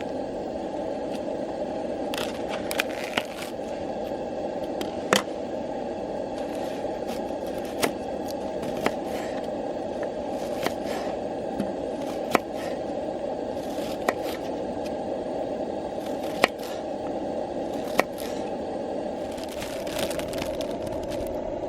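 Small wood fire burning in a compact folding fire stand, crackling, with sharp pops every second or two over a steady rushing hiss.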